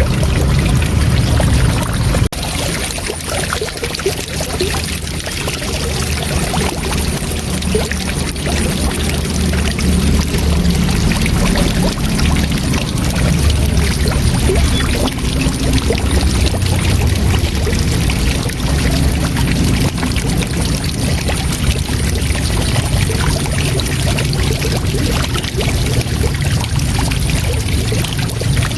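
Waterfall: water falling steadily, a continuous deep rumble with a hiss of spray over it, and a brief dip in level about two seconds in.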